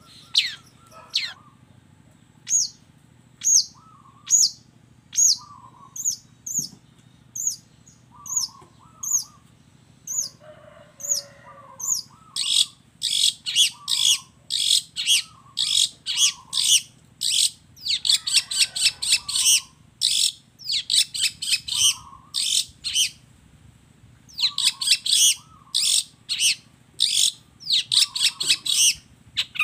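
Long-tailed shrike (cendet) singing: at first a run of sharp, high, downward notes about one a second, with a softer lower note between them. From about twelve seconds in it breaks into dense, fast chattering phrases of mimicked calls.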